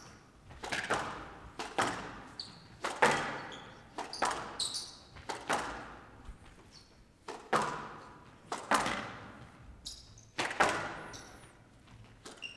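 Squash rally: the ball cracks sharply off rackets and court walls about once a second in an irregular rhythm, each hit echoing in a large hall, with a few short high squeaks of shoes on the court floor.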